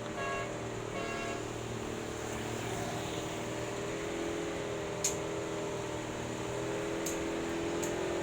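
A monster truck's motor running at a steady pitch, a continuous hum, with a sharp click about five seconds in and a couple of fainter ticks near the end.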